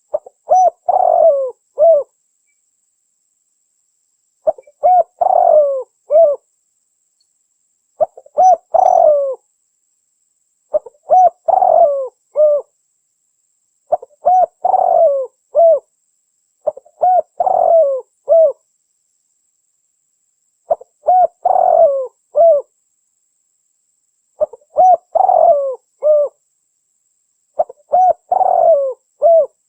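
Spotted dove cooing, played as a lure call: about nine repeated phrases, each a few short coos ending in a longer note, coming every three seconds or so with clean silence between.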